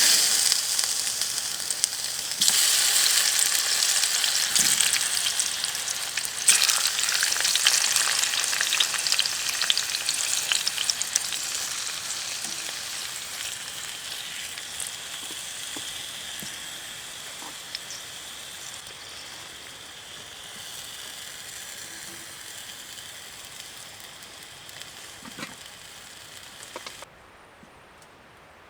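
Food sizzling in a hot pan: a loud, hissing sizzle that starts suddenly and slowly dies down, then cuts off abruptly near the end.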